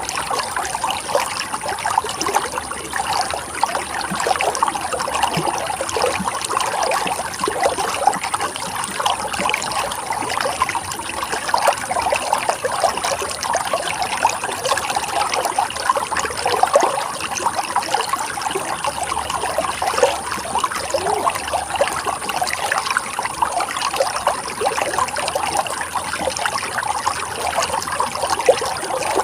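Running water of a stream, trickling and splashing steadily over rocks.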